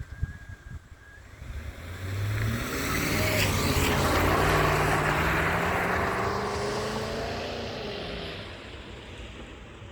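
Volvo S80's 4.4-litre V8 engine driving past: the engine note swells over a couple of seconds, peaks about halfway through, then fades away.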